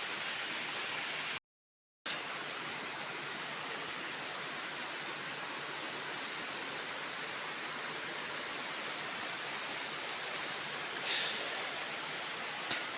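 Steady rushing of a rain-swollen river, a continuous even wash of water noise. The sound cuts out completely for about half a second near the start, and there is a brief louder rush about 11 seconds in.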